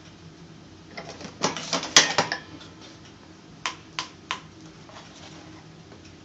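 Top-O-Matic cigarette-tube filling machine's mechanism clicking and rattling in a quick cluster starting about a second in, loudest near two seconds, then three sharp clicks about a third of a second apart.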